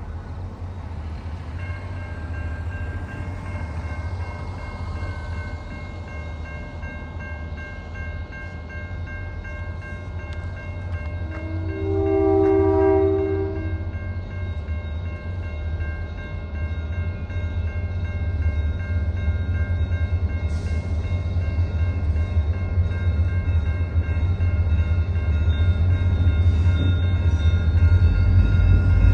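Diesel locomotive rumbling steadily with a high whine over it, growing louder as it approaches. About twelve seconds in it sounds one horn blast of roughly two seconds, and another blast begins at the very end.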